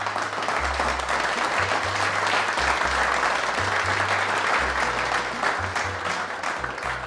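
Applause, building over the first second, holding steady and thinning near the end, over background music with a slow bass line.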